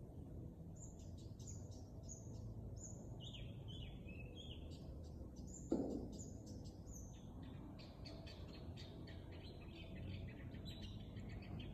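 A small bird chirping in quick series of short high notes, starting about a second in and carrying on throughout. A single sharp thump about halfway through.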